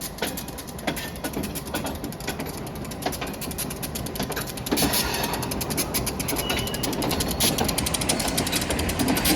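Freight train rolling slowly over a railroad trestle: a steady run of irregular wheel clicks, knocks and creaks over a low rumble, getting busier about halfway through.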